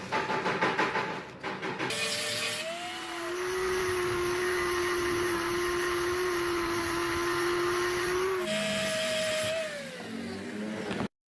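Rattling and scraping, then a small electric power tool's motor running at a steady pitch. The pitch jumps about two seconds in and again later, falls as the motor winds down near the end, and the sound cuts off suddenly.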